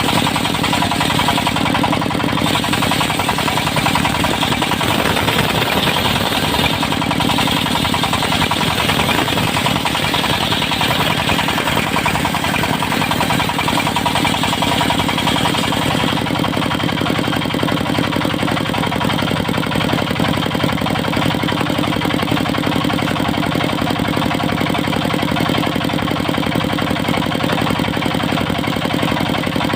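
Diesel engine of a mobile circular sawmill running steadily and driving the saw. A higher hiss fades about halfway through while the engine keeps going.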